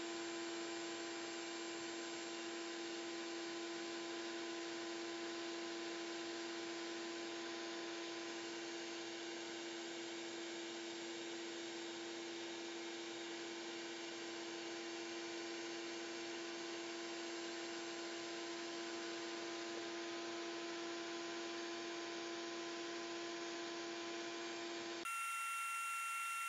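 Shop vac running steadily, a motor whine over rushing air, vacuuming lint out of a dryer vent through a rod-and-brush cleaning kit. Near the end it cuts abruptly to a different, higher-pitched steady whine.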